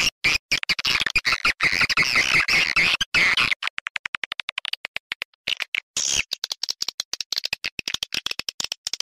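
Recorded swiftlet lure call of the kind played to draw edible-nest swiftlets into a swiftlet house: fast, high twittering chirps mixed with rapid clicking. The chirping is dense for the first few seconds, thins to a quick string of clicks in the middle, and grows dense again about six seconds in.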